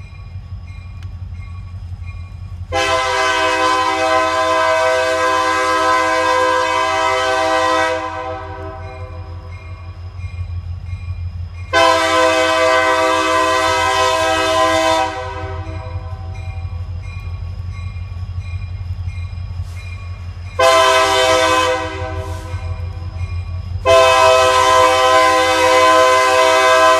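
Diesel freight locomotive sounding its multi-chime air horn in the long, long, short, long pattern, the signal for a grade crossing, over the low rumble of the passing train.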